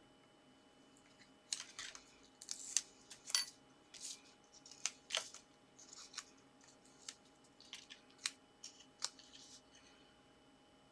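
Card and paper pieces being handled and pressed together by hand: irregular light clicks, taps and short rustles.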